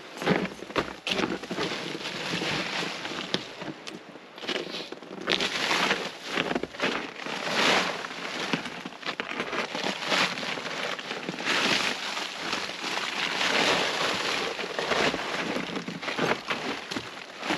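Split firewood being handled and stacked: scattered knocks and clatters of logs against each other, amid a steady rustling, scraping noise.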